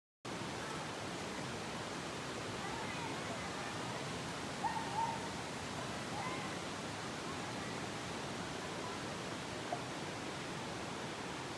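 Steady rushing outdoor noise, with a few faint short calls or voice fragments about three and five seconds in.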